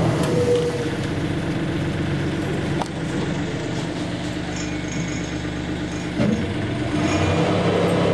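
Canal boat's engine running steadily with a low hum, with a brief knock about three seconds in and another about six seconds in.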